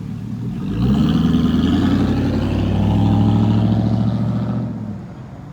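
Vehicle engine on its stock exhaust being revved: it climbs about a second in, holds high for a few seconds, then drops back to idle near the end.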